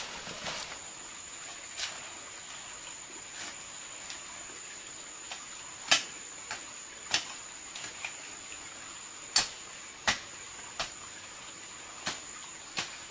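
Sharp clicks and knocks at irregular intervals, roughly one every second, over a steady high-pitched whine.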